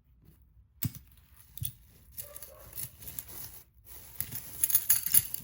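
Loose costume jewelry being handled and rummaged through: a couple of single clicks, then a quick flurry of small pieces clinking and rattling together near the end.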